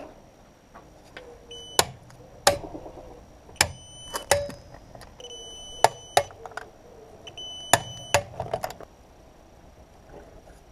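Irregular sharp metallic clinks and knocks, about seven of them, several ringing briefly: metal hand tools and parts being handled and set down during car clutch work.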